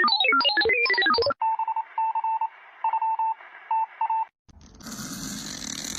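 Telephone sound effects: a quick electronic ringtone-like melody, then short repeated beeps over a hissy phone-line tone, and near the end a burst of hiss.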